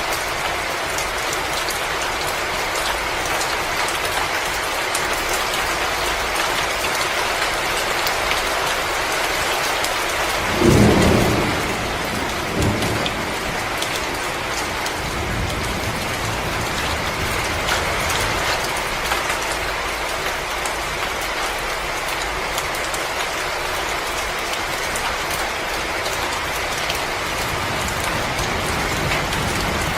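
Wood fire crackling and hissing steadily with many small pops. There is a louder low thud about ten seconds in and a smaller one a second or two later.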